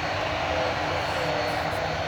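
Airliner engines running with a steady noise, the main tone dipping slightly in pitch about a second in.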